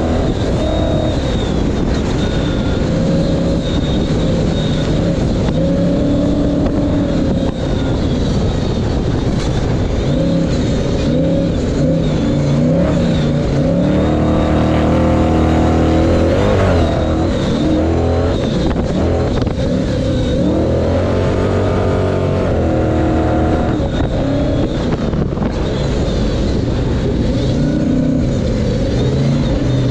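Ford Ranger pre-runner race truck's engine running hard under racing load, its pitch repeatedly climbing and dropping as it revs up and eases off, with the highest revving about halfway through.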